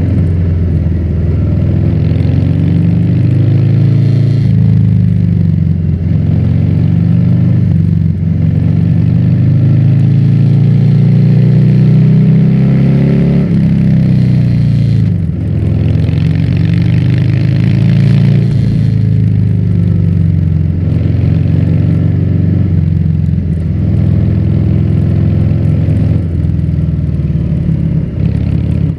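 Harley-Davidson Fat Bob's V-twin engine running through a Vance & Hines exhaust while riding. The engine note rises and falls with the throttle, with a sharp drop in pitch about thirteen seconds in.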